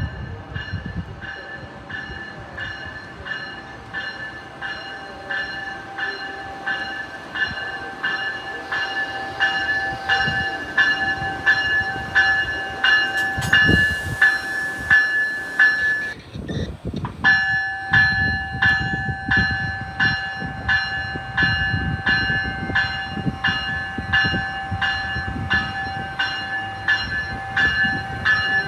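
Amtrak ACS-64 electric locomotive pulling a train into the station, its low rumble growing as it nears. Over it a bell rings in a quick, even rhythm; the ringing pauses briefly about halfway through, then starts again.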